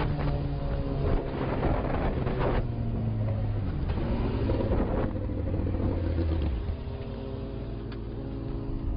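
Motor vehicle engine running, its pitch shifting, with a few short rushes of noise in the first three seconds; it drops to a quieter steady hum about two-thirds of the way in.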